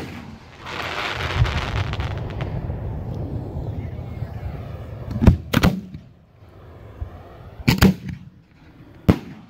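1.3G display firework shells bursting: a rolling rumble through the first few seconds, then sharp booms, two close together about five seconds in, two more a little before eight seconds, and one more near the end.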